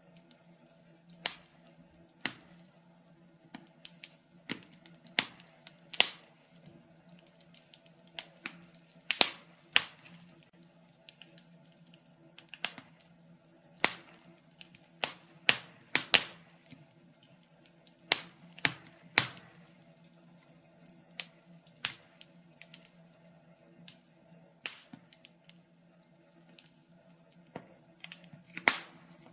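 Wood fire crackling: irregular sharp pops and snaps of burning logs at uneven intervals, over a faint steady low hum.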